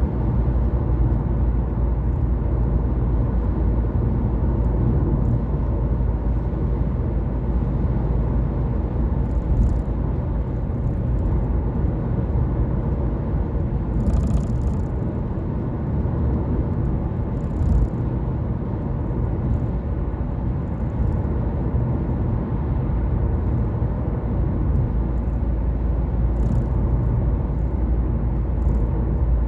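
Car driving at a steady pace: continuous engine and tyre rumble on the road, with a few brief clicks here and there.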